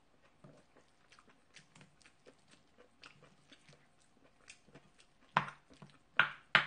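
Close-miked chewing of rice mixed into sauce, with many soft mouth clicks and smacks. Three louder, sharp clicks come near the end.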